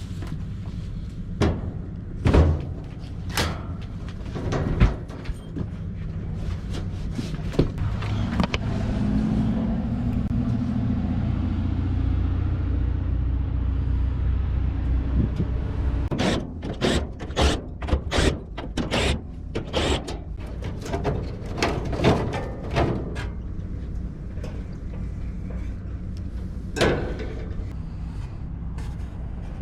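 A vehicle engine running with a steady low rumble that swells for several seconds about ten seconds in, overlaid by a series of sharp knocks and clicks, scattered at first and then a quick run of them later on.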